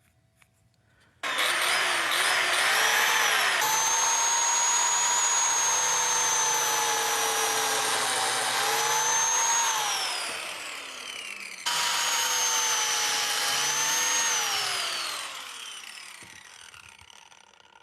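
Biscuit joiner started twice, each time running up to a steady high whine, its pitch dipping briefly partway through each run before it winds down: cutting two biscuit slots in the wood.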